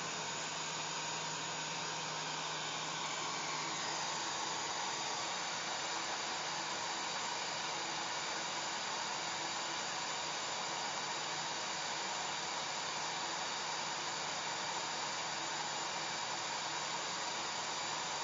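Hair dryer blowing steadily: an even rushing hiss of air with a faint motor hum beneath, and a slight shift in its tone about four seconds in.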